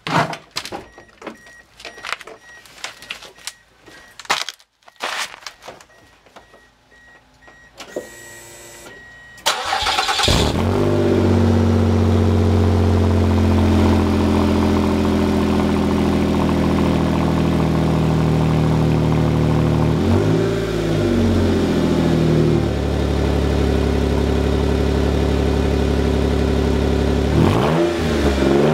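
A 2002 Mazda MPV's V6 engine started and left running with a rusted-through exhaust leak. First come clicks and knocks with a repeating beep, then the engine cranks and catches about a third of the way in and runs loud and steady, revved briefly twice, the second time near the end.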